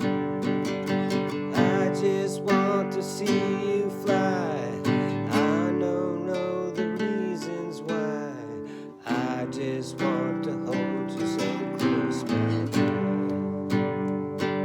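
Acoustic guitar playing an instrumental passage of a song: a run of plucked notes and strums, with some wavering, sliding notes in the middle.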